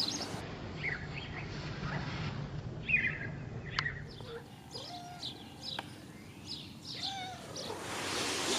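Pet birds chirping in short, scattered calls, with a few lower whistled notes in the middle.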